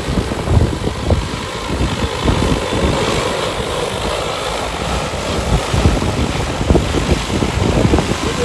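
Strong wind buffeting the microphone in gusts, over the steady hum of a large multirotor agricultural spray drone's propellers.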